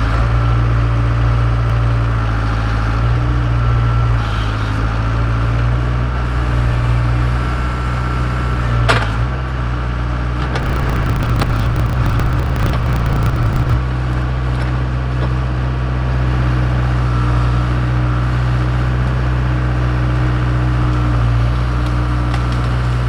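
Case 580K backhoe's diesel engine running steadily under load while it works at a tree. About nine seconds in there is a single sharp crack, followed a second later by a few seconds of crackling and snapping.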